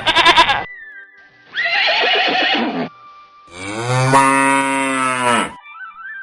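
Farm animal call sound effects: long, low cow moos, with a shorter, rougher animal call in between, over faint background music.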